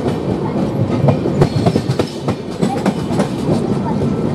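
Express passenger coach running fast on the rails: a loud, steady rumble of wheels on track with irregular sharp clickety-clack, heard at the coach's open door.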